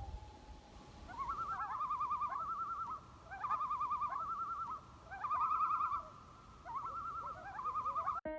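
Common loon giving its tremolo call: four bouts of rapid, quavering, wavering notes, each starting with a short rising lead-in.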